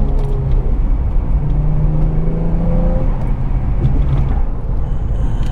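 Infiniti G35 coupe's 3.5-litre VQ35DE V6 running through a Z1 touring exhaust while driving; the engine note climbs and then drops about three seconds in.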